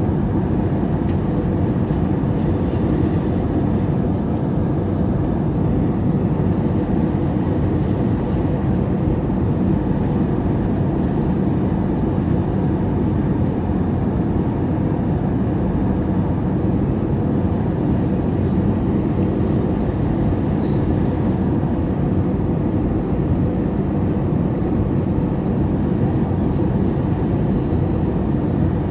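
Steady airliner cabin noise inside an Airbus A321: the low, even rush of the jet engines and airflow in flight, with a faint steady hum.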